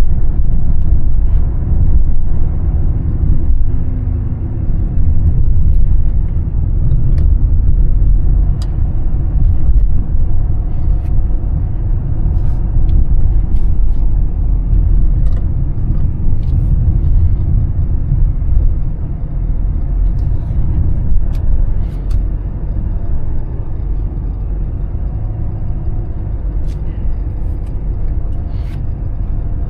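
Mercedes-Benz E320 CDI's 3.2-litre inline-six turbodiesel running on the move, a steady low rumble of engine and road noise with scattered light clicks, easing off slightly near the end.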